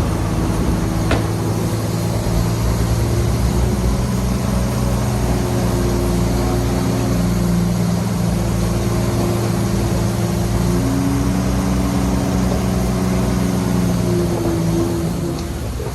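Heavy diesel engine of earthmoving machinery running steadily under load, its note shifting a little about two-thirds of the way through and again near the end. A short click about a second in.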